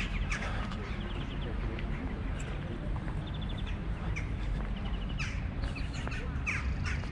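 Several birds calling in short, repeated high notes, scattered throughout, over a steady low rumble.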